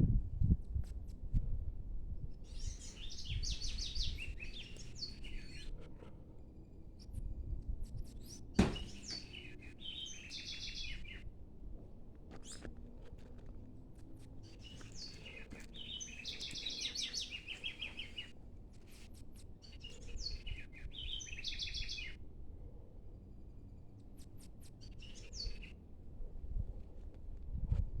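A songbird singing about five phrases of rapid, high, trilled notes, each lasting two to three seconds with pauses between them, over a steady low rumble. There is one sharp knock a little over eight seconds in.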